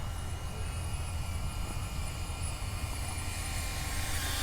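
Steady wind rumble on the microphone, with the faint, even whine of a small FPV drone's propellers in flight, a DJI Avata 2.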